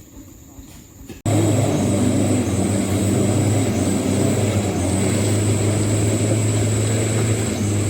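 Mitsubishi Canter truck's diesel engine running hard, a loud steady drone that starts abruptly about a second in.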